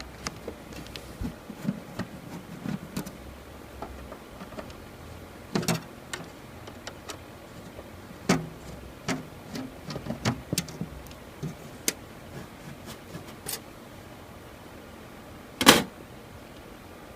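Scattered clicks, taps and knocks of hand work on a Coleman Mach 3 rooftop air conditioner as its small access panel is taken off, with one sharp, louder knock near the end.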